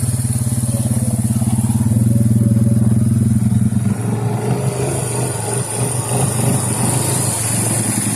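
Suzuki Eiger 400 ATV's single-cylinder engine running steadily under throttle; about four seconds in its note drops and turns rougher and uneven.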